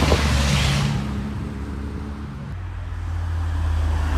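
Car engines running as cars drive past close by, with a deep exhaust note that swells again near the end.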